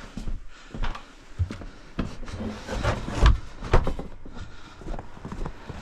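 Scattered knocks, clunks and rubbing of things being handled and moved about in a small room, with two loud thumps a little past the middle.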